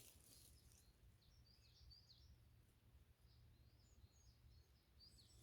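Near silence with faint, high chirps of small birds, in a few short clusters of quick notes.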